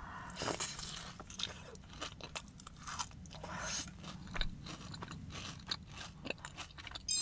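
Close-up chewing of a Dubai chocolate cookie, with irregular crunching crackles from a bite of the crisp filling.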